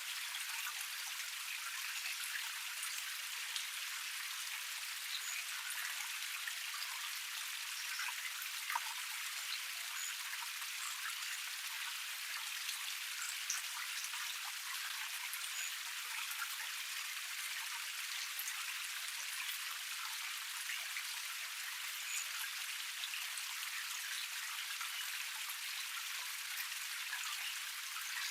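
Water of a small forest cascade running and splashing over rocks: a steady rush thick with small, sharp droplet splashes.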